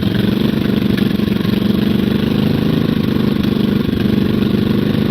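Motorcycle engine running steadily at low revs, with an even, unchanging note.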